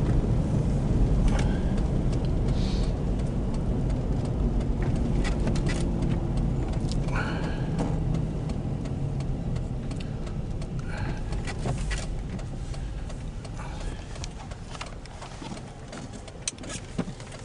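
Car cabin noise of engine and tyres with a low rumble and scattered clicks, growing steadily quieter as the car slows toward a stop at a traffic light.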